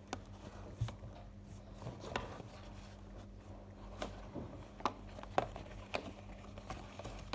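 A sheet of paper being handled and creased for a paper airplane: faint, scattered soft crackles and taps, about one a second, over a steady low electrical hum.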